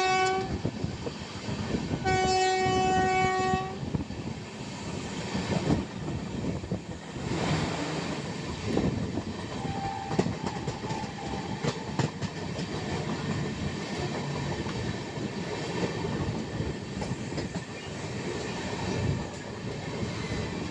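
A train horn sounds a short blast, then a longer blast about two seconds in. After that comes the steady rumble of the moving train, its wheels clacking over the rail joints.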